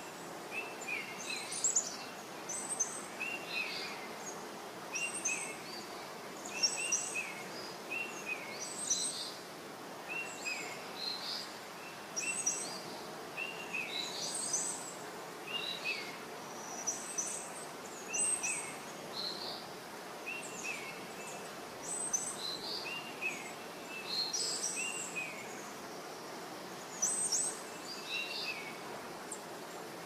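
Small bird chirping: short, high chirps repeated roughly every second, over a steady background hiss.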